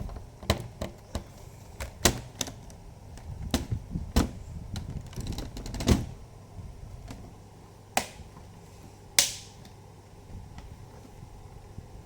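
Irregular sharp clicks and knocks of a laptop's plastic casing and parts being handled and fitted, with one louder click near the end that rings briefly.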